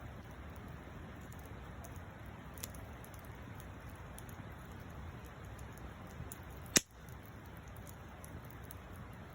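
Wood fire burning with a low steady rush and scattered faint crackles, with one loud sharp pop about two-thirds of the way through.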